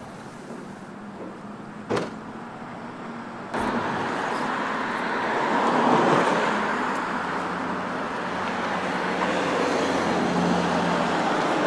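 A car running close by, its engine and road noise growing louder from about three and a half seconds in. A single sharp click comes about two seconds in.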